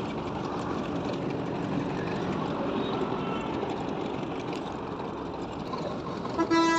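Steady road noise of a motorcycle ride on a highway: engine, tyres, wind and passing traffic. A vehicle horn honks once, briefly, near the end.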